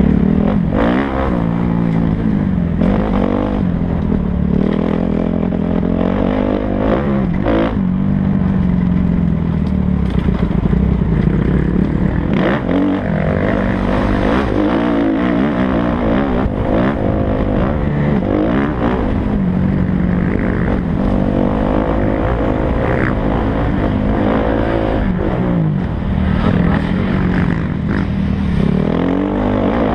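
Kawasaki KX250F single-cylinder four-stroke motocross engine run hard, its pitch climbing and dropping again every second or two as the throttle is opened and closed between gears and corners.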